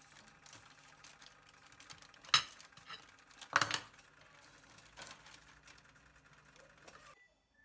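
Tableware clinking: two sharp ringing clinks, about two and a half and three and a half seconds in, among lighter clicks and handling sounds. The sound cuts off abruptly near the end.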